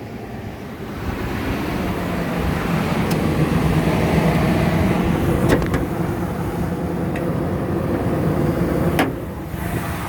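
Ford V10 gas engine of a 2004 F-350 Super Duty idling steadily and quietly, just after being started. Two sharp knocks cut through it, about halfway through and near the end.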